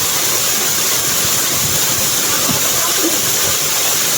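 Waterfall: falling water pouring steadily, heard as a loud, even rushing hiss.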